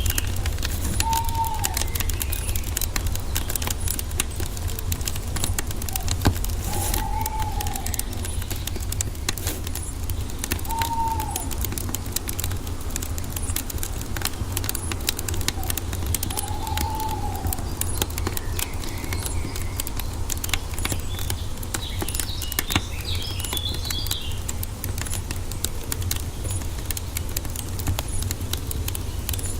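Wood fire crackling steadily over a low rumble of flames, with a couple of sharper pops. A bird gives four short arched calls spaced several seconds apart, and other birds twitter briefly in a higher pitch near the end.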